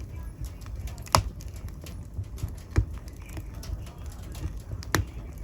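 Wood fire crackling in a fireplace: many small snaps over a low steady sound of flames, with three louder pops, about a second in, near three seconds and near five seconds.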